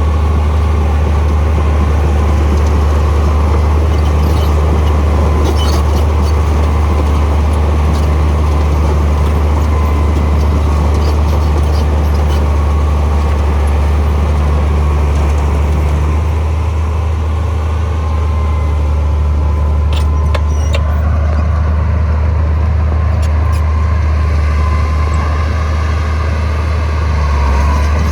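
Heavy diesel engine of earthmoving machinery running steadily with a deep, constant drone, easing a little about two-thirds of the way through. A few faint metallic clicks come through, around a fifth of the way in and again later.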